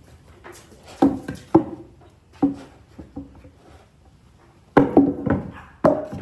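Irregular hollow wooden knocks and clunks, some single and some in quick clusters of two or three, the loudest group about five seconds in.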